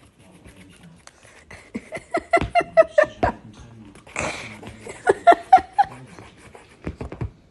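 A dog giving two quick runs of short, pitched yaps or barks, about two seconds apart, with a breathy huff between them.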